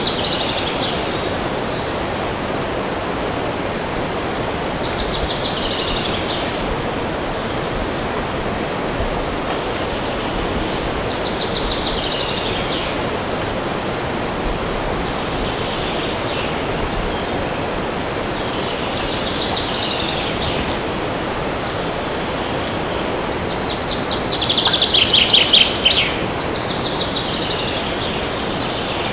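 Steady rush of wind through forest trees, with a songbird repeating a short, descending trilled song phrase every few seconds. The loudest and longest phrase comes near the end.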